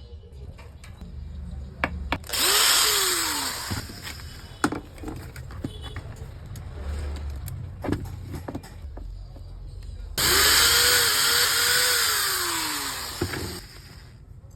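Electric angle grinder switched on twice, briefly the first time and for about three seconds the second. Each time it spins up and then winds down with a falling whine. There are a few clicks between runs.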